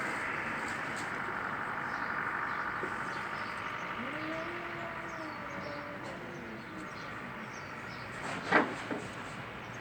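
A cat's low, drawn-out yowl rising and falling in pitch for about two and a half seconds, the warning call of cats squaring off in a fight, over a steady background hum like distant traffic. A short, sharp burst of noise comes near the end.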